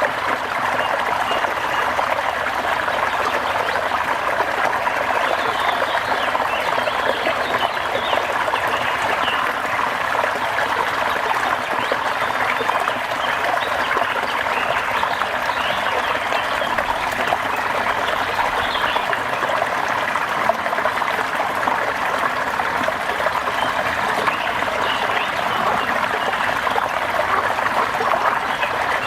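A steady, even wash of water noise that holds at one level throughout, as of rain or running water.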